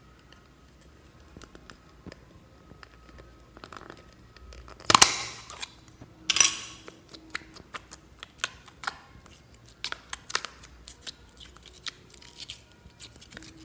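Slime being handled and mixed by hand: scattered sticky clicks and small pops, with two louder crackling bursts about five and six and a half seconds in.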